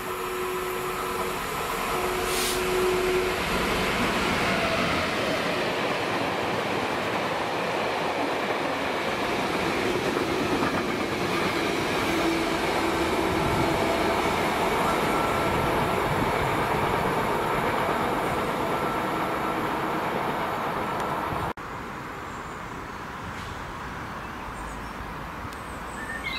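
A Class 66 diesel locomotive passes at speed hauling a long train of loaded bogie hopper wagons: the engine note, then a steady rumble and clatter of wagon wheels on the rails. The sound cuts off abruptly about 21 seconds in, leaving a much quieter, steady background.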